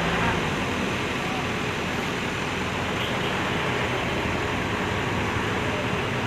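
Truck crane's diesel engine running steadily, a continuous low rumble under an even wash of noise.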